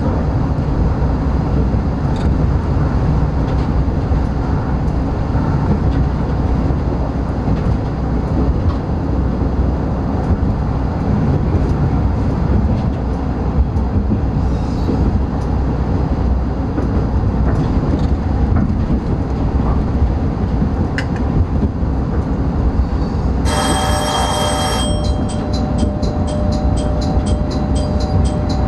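Steady running rumble of an NT100 diesel railcar on the rails, heard from the cab. Near the end a short, high tonal blast sounds, followed by steady ringing tones with a fast, even repeating pattern.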